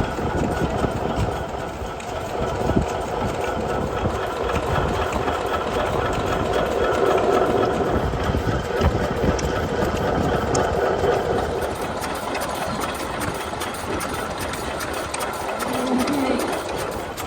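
Vintage stationary engines running steadily, with a dense, even mechanical clatter.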